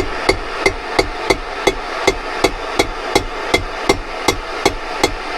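Light, even hammer taps, about three a second, driving a wedge between the bent cooling fins of a Suzuki T500 cylinder to ease a fin back out gradually without snapping it.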